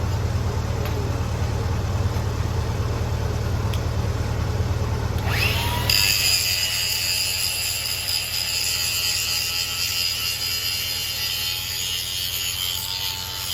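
Lincoln SA-200 engine-driven welder's engine running steadily. About halfway through, a TIG arc is struck with a brief rising tone, then a steady high sizzling hiss while the engine's low note drops back.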